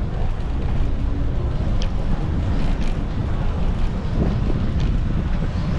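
Wind buffeting the microphone of a moving bike-mounted action camera, a steady low rumble with a few faint ticks.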